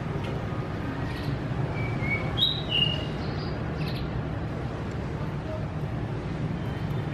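Caged songbirds giving a quick run of short whistled chirps between about two and three seconds in, over a steady low background noise.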